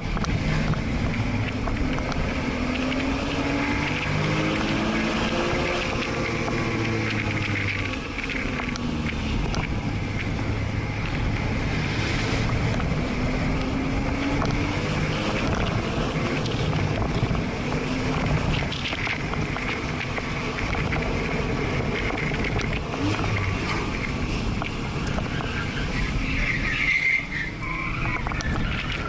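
Porsche flat-six engine heard from inside the cabin, revving up and falling back again and again as the car is driven hard through the gears. A brief tyre squeal comes near the end.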